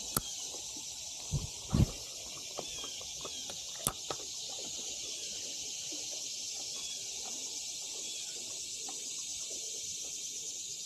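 Steady high-pitched drone of summer insects along a creek, with a few sharp clicks and soft knocks in the first four seconds.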